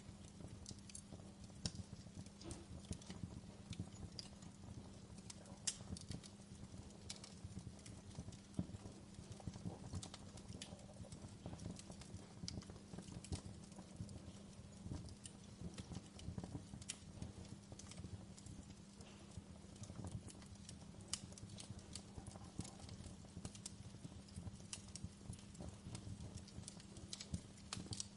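Wood fire burning in a fireplace, with irregular sharp crackles and pops over a low steady hum.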